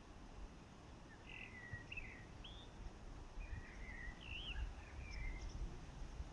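A songbird sings short warbling phrases in two bouts, rising and falling in pitch, over a low rumble of wind buffeting the microphone.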